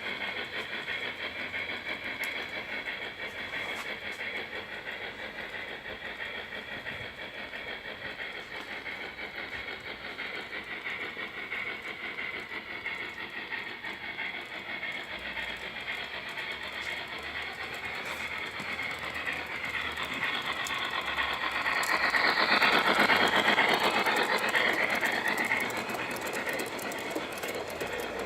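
Gauge 1 model train, a BR 80 steam tank locomotive with four coaches, running on its track with a steady metallic rattle of wheels over the rails. It gets louder about three quarters of the way through, peaking for a few seconds as the train passes close, then fades.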